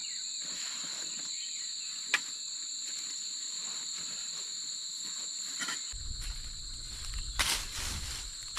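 Insects trilling in a steady chorus, two high continuous tones that do not let up. A single sharp click about two seconds in, and rustling with a low rumble in the last couple of seconds.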